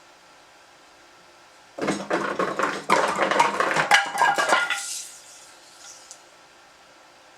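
Firewood clattering down a culvert drain-pipe chute: a dense rush of knocks and rattles for about three seconds, dying away with a couple of faint knocks.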